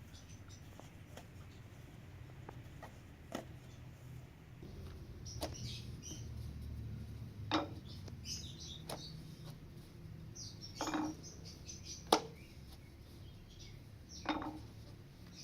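Scattered sharp clinks and knocks, a few seconds apart, over a low steady hum, with faint high chirps in between.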